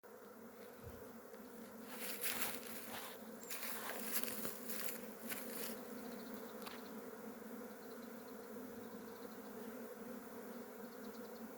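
A swarm of Korean native honeybees (Asian honeybees) buzzing in a steady, dense hum as the colony swarms. Louder rustling noises come and go between about two and six seconds in.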